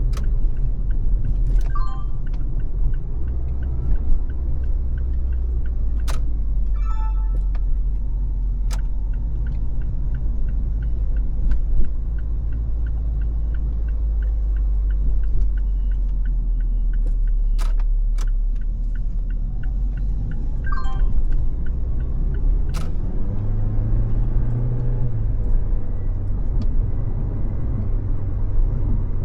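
Car driving at freeway speed: a steady low rumble of road and engine noise, with a few sharp clicks and short high chirps. Near the end a pitch rises through the rumble.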